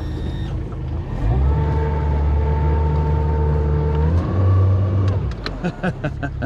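Boat motor run in reverse, trying to back an aluminum boat off a submerged stump. It runs steadily, steps up in pitch and loudness about four seconds in, then cuts off. A few sharp knocks follow near the end.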